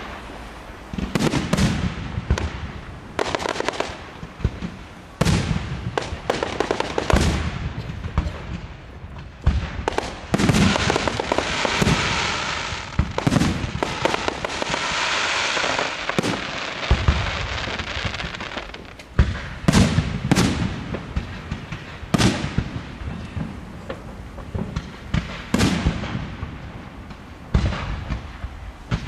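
Fireworks display: aerial shells bursting in a string of sharp bangs, irregularly spaced, some close together. Near the middle a dense, steady rushing crackle lasts several seconds before the single bangs resume.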